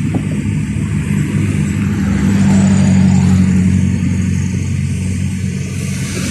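Boeing 737-800 jet engines running at high power, a loud steady low drone that swells about two seconds in and eases again toward the end.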